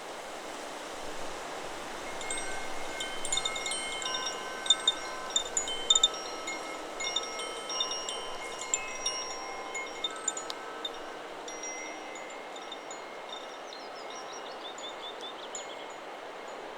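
Chakra Chimes 'Solar Plexus' wind chime ringing in the wind: a flurry of overlapping struck notes for about ten seconds that thins out and fades, over a steady hiss of wind in the trees. Near the end a bird trills.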